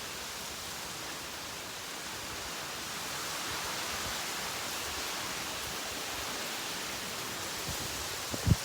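Steady hiss of heavy thunderstorm rain, a little louder after about three seconds, with a short low thump near the end.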